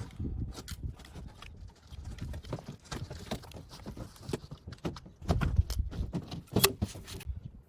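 Irregular knocking and clattering of hard objects, busiest and loudest about five to seven seconds in.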